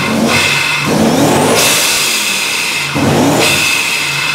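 G-Power centrifugal-supercharged BMW M3 E92 V8 being revved in free rev, twice, with a high supercharger whine as the revs climb. Between the two blips the blow-off valve vents with a long hiss lasting over a second.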